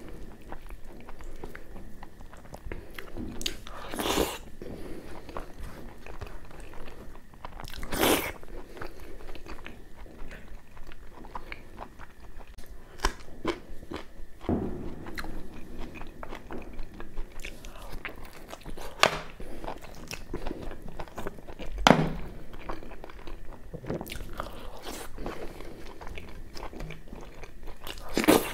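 Close-miked chewing and biting of mutton curry with puri: wet mouth sounds made of many small clicks, with a few louder sharp clicks spread through.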